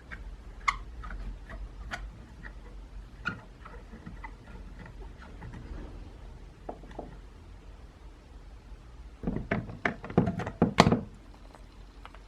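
Workshop handling of metal parts: scattered light clicks and clinks, then a quick run of louder knocks and thunks about nine to eleven seconds in.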